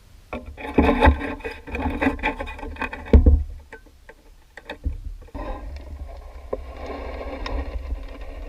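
Sheet-metal work: clattering and a heavy thump about three seconds in as a steel strip is set up and bent in a sheet-metal brake, then from about five seconds a steady, even machine sound, likely a power tool cutting the strip to size.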